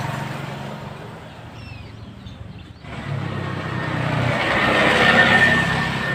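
Motor vehicle engines running and passing by. One fades away about two seconds in, then another approaches and passes, loudest about five seconds in.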